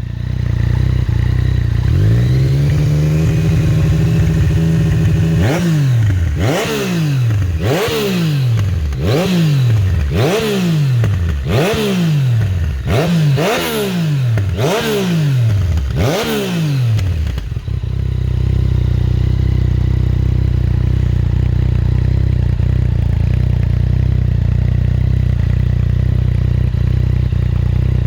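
Yamaha Niken GT's three-cylinder engine on an aftermarket performance exhaust, revved while stationary. It idles, rises and holds a raised engine speed for a few seconds, then is blipped about nine times in quick succession, each rev falling straight back, before settling into a steady idle for the last ten seconds.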